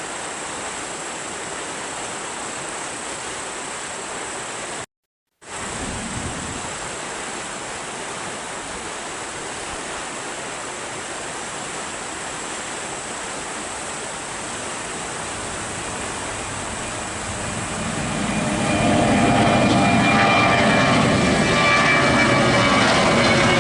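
Steady outdoor hiss, broken by a brief dropout about five seconds in. Then, over the last third, an airliner's engines grow louder over about two seconds and stay loud, with a whining tone.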